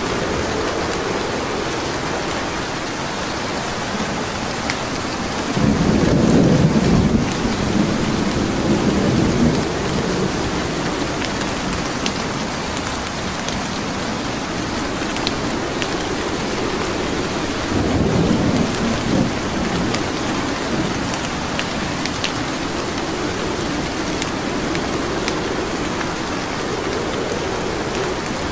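Steady heavy rain, with the sharp scattered pops of a crackling wood fire. Twice, about six seconds in and again near the twenty-second mark, a low rumble swells up over the rain and fades.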